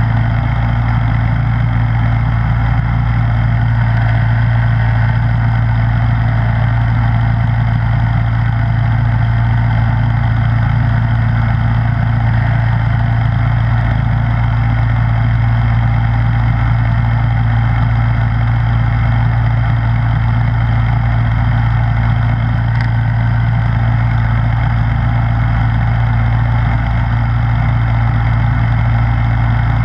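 Snowblower engine running steadily at a constant speed with a deep, even hum.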